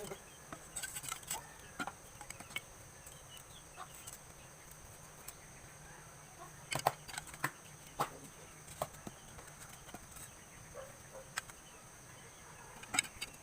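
Scattered light clicks and taps, a few sharper ones around the middle and near the end, over a steady high insect drone.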